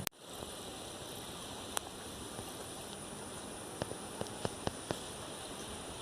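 Water running in a small stream, a steady hiss, with a sharp click at the very start and a few light ticks about four to five seconds in.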